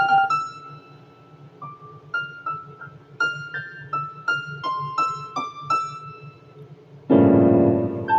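Solo keyboard music with a piano sound: a slow melody of single struck notes that ring and fade, then a loud, dense chord held from about seven seconds in.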